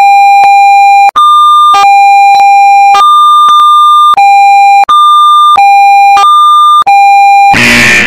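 Fan-made Emergency Alert System-style alarm: a loud, hard electronic two-tone alert that switches back and forth between a low and a high pitch, with a click at each change. Near the end it breaks into a loud, harsh noisy sound.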